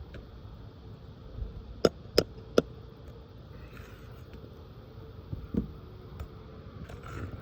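Hammer striking on a roof: three sharp blows in quick succession about two seconds in, then a softer knock a few seconds later.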